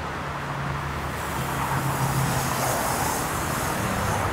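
Electric commuter train moving through the station platform: a steady rumbling running noise with a low hum that shifts slightly in pitch.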